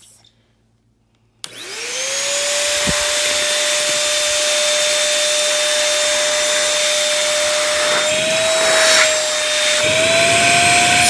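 A small Bissell vacuum cleaner switching on about a second and a half in, its motor whining up to speed within half a second. It then runs steadily with a loud rushing of air, its pitch lifting slightly a couple of times near the end.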